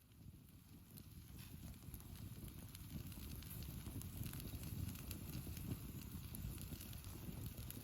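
Open campfire crackling in scattered sharp pops over a low rumble of wind on the microphone. It grows louder over the first few seconds.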